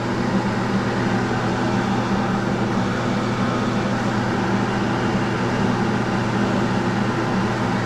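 Steak pieces frying in hot oil in a pan, a steady sizzle over a constant mechanical hum.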